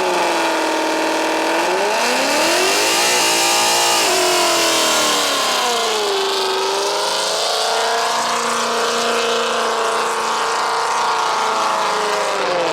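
Car engine being revved hard, its pitch dropping and climbing again several times, then holding high and steady for a few seconds before falling near the end.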